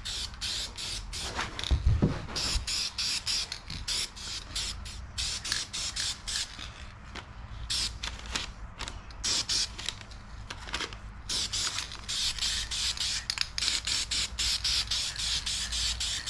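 Spray paint hissing in many short bursts and a few longer passes while a coat of paint is laid on an engine. A dull bump sounds about two seconds in.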